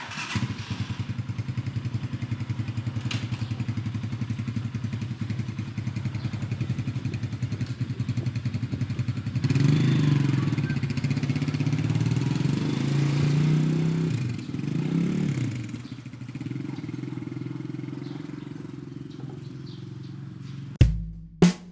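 Motorcycle engine running with a rapid, even pulse; about halfway through it gets louder and its pitch rises and falls for several seconds, then settles back quieter. Music with heavy drum hits cuts in near the end.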